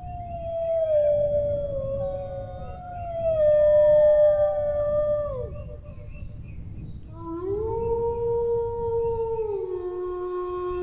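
Several dogs howling together, long drawn-out howls overlapping at different pitches, each sliding slowly downward. After a short lull in the middle, a new howl rises and is held, then drops in pitch near the end.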